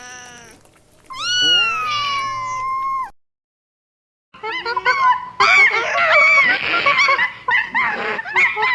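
A cat meowing: a short meow, then one long drawn-out meow that falls in pitch and holds. After a pause, a different burst of many quick, overlapping chirping calls.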